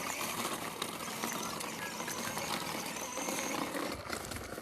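Child's ride-on motorcycle with a small motor running steadily as it drives along.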